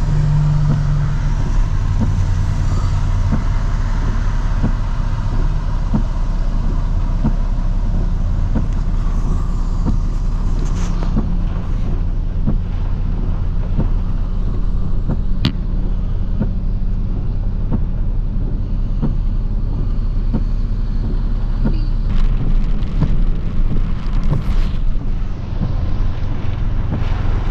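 Pickup truck engine idling steadily, heard from inside the cab, a low even hum with faint regular ticks. A few seconds before the end a louder spell of rushing noise comes in.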